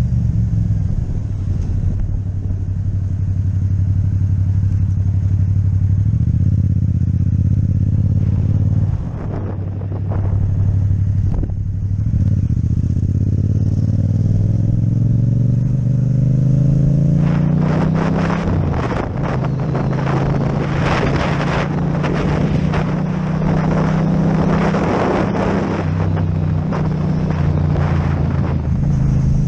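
Yamaha MT-07 parallel-twin with an Akrapovic exhaust running under way. The engine note holds steady, drops briefly about nine seconds in, then rises steadily for several seconds as the bike accelerates. From about two-thirds of the way through, wind rushing and flapping over the microphone builds alongside the engine.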